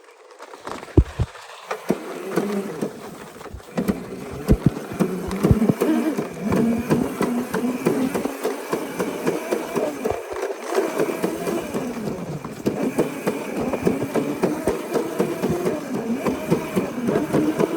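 Small dirt bike engine running with a buzzing note, its pitch rising and falling with the throttle. Sharp knocks and rattles are heard during the first several seconds.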